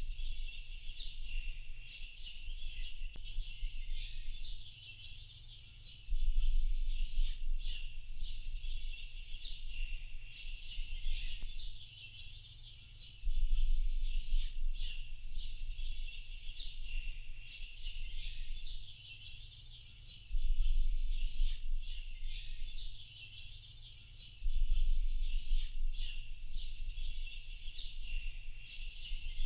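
A dense chorus of small birds chirping and twittering without a break. A deep low rumble swells up four times, for about two seconds each time.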